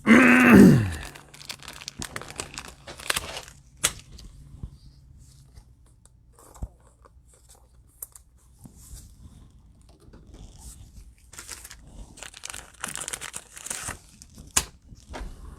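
Trading-card pack wrappers being torn open and crinkled, with cards rustling, in bursts through the stretch. It opens with a loud tone, under a second long, that falls in pitch.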